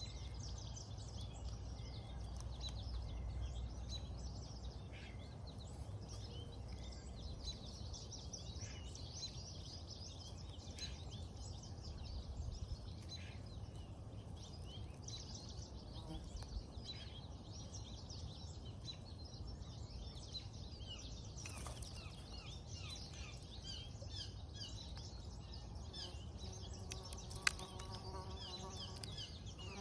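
Outdoor ambience: a dense, steady chorus of short, high chirps, over a low rumble, with a single sharp click about three seconds before the end.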